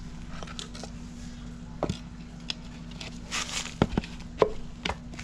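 Scattered sharp clicks and knocks of hand tools on engine parts, loudest about four seconds in, with a brief hiss in between, over a steady low hum.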